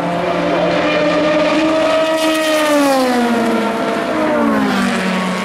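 Endurance race car engine passing at speed. Its note holds steady, then falls in pitch through the second half as the car goes by.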